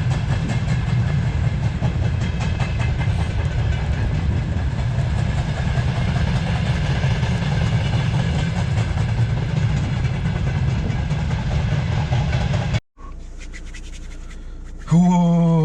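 Strong wind buffeting the microphone in a snowstorm, a steady rough rumble. It cuts off abruptly near the end, giving way to quieter background and a man's brief exclamation.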